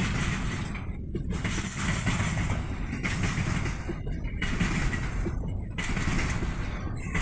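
Container freight train rolling past: a steady rumble of steel wheels on rail with a clattering hiss that dips briefly several times as the wagons go by.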